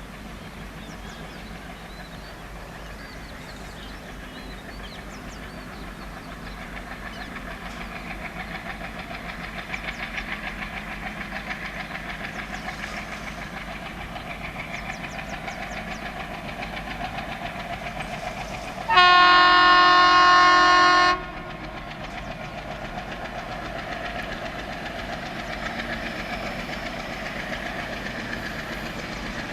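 An approaching train's rumble slowly grows louder. About two-thirds of the way in, the locomotive sounds one long horn blast of about two seconds, a single chord-like tone, and the train's running noise carries on after it.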